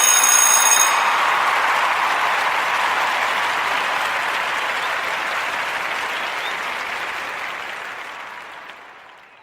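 Crowd applause at the close of a song, clapping in an even wash that fades out slowly to nothing by the end.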